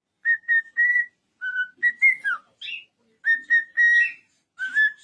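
A pet parrot, such as a cockatiel, whistles a tune of clear notes in short phrases. Three short notes are followed by a few gliding ones, and after a brief pause about three seconds in the three-note figure repeats.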